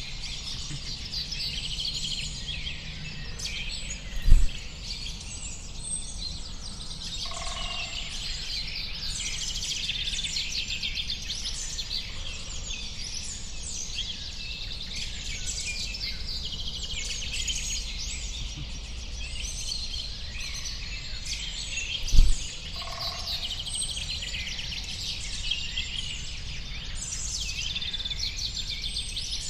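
A dense chorus of many small birds chirping and calling over one another, over a steady low rumble of background noise. A dull thump sounds twice, about 4 seconds in and again about 22 seconds in.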